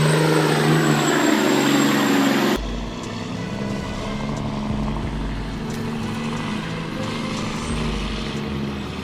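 Diesel engines of loaded timber semi-trucks pulling uphill. About two and a half seconds in, the sound cuts abruptly to a lower, steadier engine note with more rumble.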